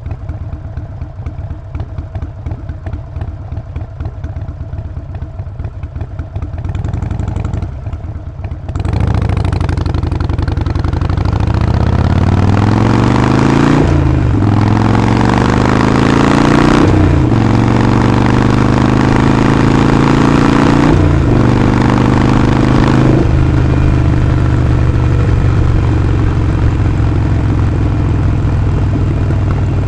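Harley-Davidson Sportster 48's air-cooled 1200 cc V-twin idling with its lumpy beat and a short blip near 7 seconds. The bike then pulls away about nine seconds in, the engine note rising through the gears with four quick upshifts. It settles into a steady cruise for the last several seconds.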